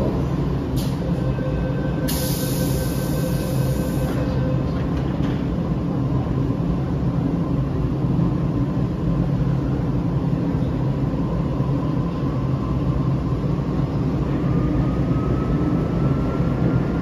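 MTR M-train electric multiple unit running on the Tsuen Wan Line with a steady low rumble. A brief high hiss comes about two seconds in, and a faint whine rises in pitch near the end.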